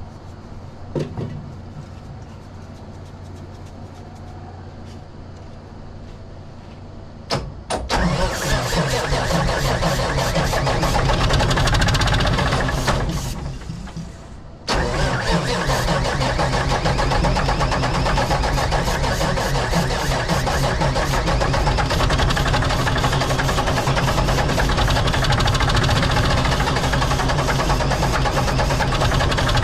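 Old Mack R model truck's diesel engine being cranked by its starter on ether, turning over fast and rhythmically without running on. Before that, a low steady hum. The cranking sets in suddenly about seven seconds in, fades and stops for a moment around halfway, then resumes abruptly. It has not started, which the owner puts down to fuel not reaching it: a pickup problem, a plugged filter or a stuck injection pump.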